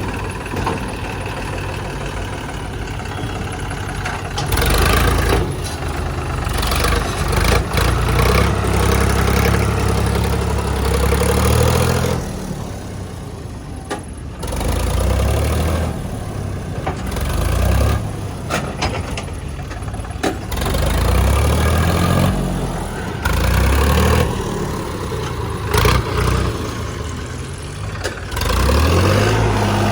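JCB 3DX backhoe loader's diesel engine working, revving up in repeated surges and dropping back toward idle between them as the loader works its hydraulics; the longest surge runs several seconds, and near the end the revs climb again.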